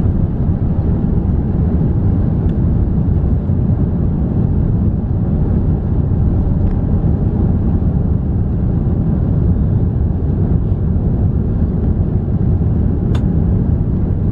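Steady, loud rumble of an Airbus A350-900's Rolls-Royce Trent XWB engines and airflow, heard inside the economy cabin during takeoff. A single sharp click sounds near the end.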